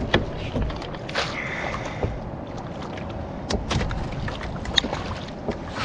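Scattered knocks, clicks and small splashes from a canoe while a hooked walleye is played and reeled in, with a brief thin whine a little over a second in.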